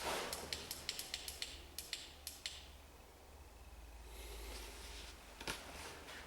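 A quick run of about a dozen sharp clicks and taps over the first two seconds or so, then a faint hiss and one more click near the end.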